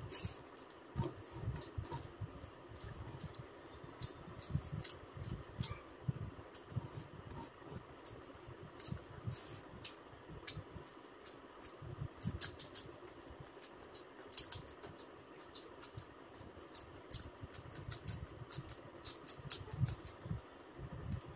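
Close-miked eating sounds: irregular chewing and mouth noises with many small sharp clicks and soft low thumps.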